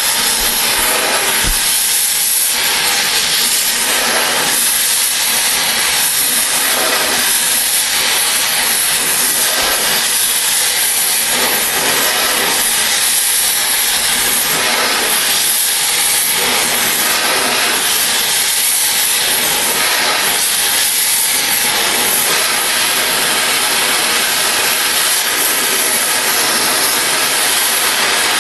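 Oxy-fuel cutting torch giving a loud, steady hiss as it flame-cuts through steel railroad rail, with a faint slow pulsing in the hiss.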